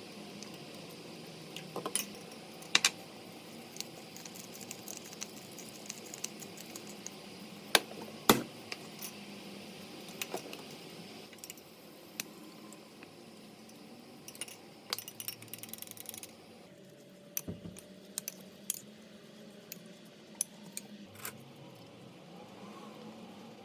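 Scattered clicks and clinks of kitchen utensils and dishes being handled during food preparation, with a few louder knocks. A steady background noise drops away about two-thirds of the way through.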